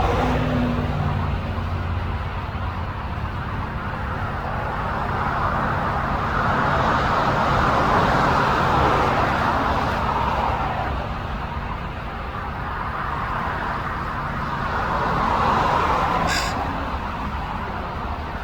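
Road traffic: passing vehicles rising and fading in slow swells, with a low engine hum at the start that fades out and a brief click about sixteen seconds in.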